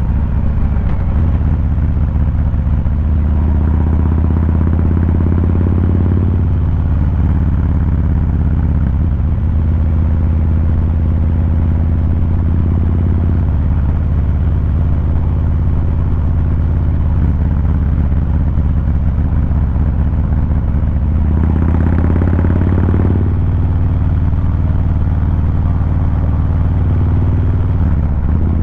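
Exhaust of a 2023 Harley-Davidson Fat Boy 114's Milwaukee-Eight 114 V-twin under way. The engine note rises in pitch several times as the bike accelerates, with the strongest pull about three quarters of the way through.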